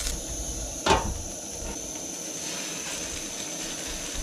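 A quesadilla frying in a pan with a steady hiss, and one sharp knock about a second in.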